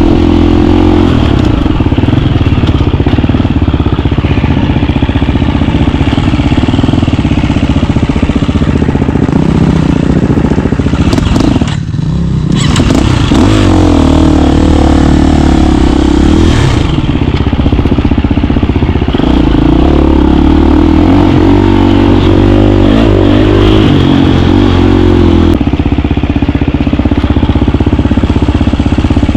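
KTM 350 dirt bike's single-cylinder four-stroke engine running while riding, its pitch stepping up and down with throttle and gear changes. The engine drops off briefly about twelve seconds in, then picks up again.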